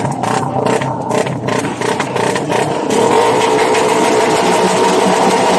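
Motorcycle engine revving hard in quick throttle blips, then held at a steady high rev from about three seconds in.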